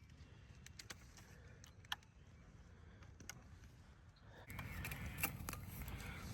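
Sparse small clicks and taps, with a louder rustling noise starting about four and a half seconds in.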